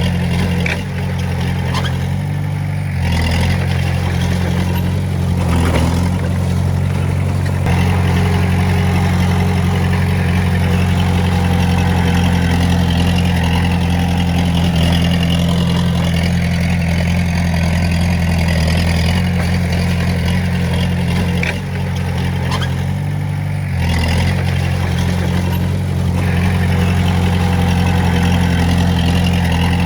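Bulldozer's diesel engine running steadily, with the engine note changing briefly twice, once near the start and once about two-thirds through.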